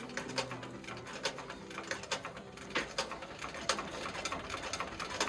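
Irregular light clicks and taps, like hand work at a leather bench, with soft, low bird cooing behind them.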